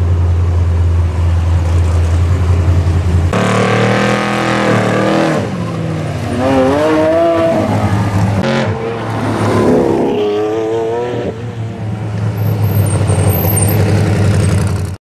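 Engines of a Lamborghini supercar and a trophy truck: a loud, steady deep idle, then after an abrupt cut the engines revving and driving by, pitch rising and falling, with a few more sudden cuts before a steady idle returns near the end.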